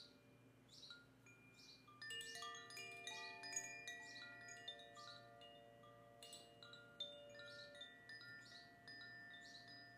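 Soft chime tones ringing, many notes of different pitches starting one after another and overlapping as they sustain, with short high chirps recurring throughout.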